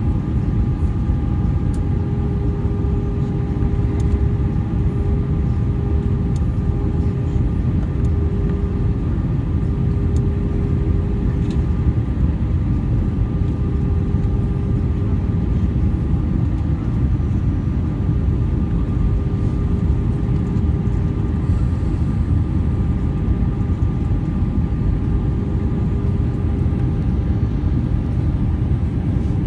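Airbus A320 cabin noise on the approach: a steady, loud low rumble of engines and airflow, with a faint steady hum running through it.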